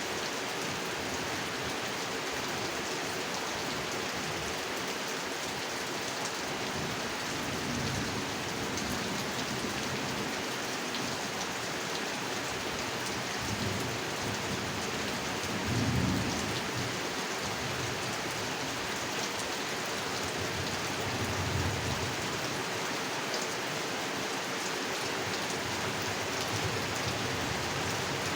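Steady heavy rain falling on a pond, an even hiss throughout, with low thunder rumbles about a third of the way in, again just past halfway (the loudest), and once more near three-quarters through.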